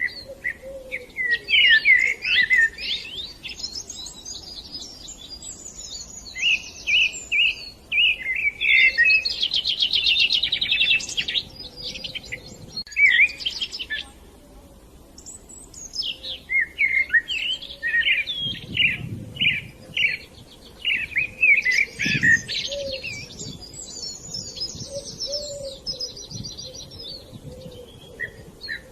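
Budgerigars chirping and chattering in quick, dense bouts of high chirps and buzzy trills, with a short lull about halfway through. A couple of soft low thumps come later on.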